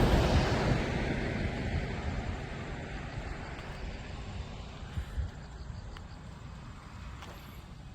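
Motorcycle ride noise, an engine and wind rumble without a clear pitch, fading steadily over several seconds, with a couple of faint clicks near the middle and end.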